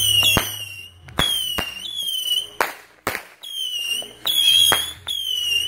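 Whistling fireworks: a run of shrill whistles, each sliding slightly down in pitch, with sharp bangs of shells bursting in between, about six in all.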